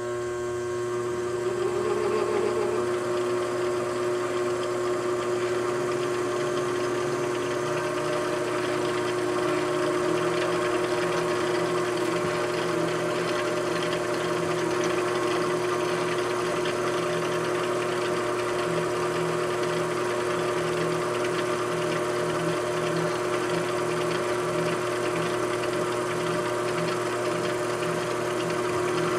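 Machine tool's electric motor running steadily, a constant hum with several steady tones and a rougher mechanical rattle underneath.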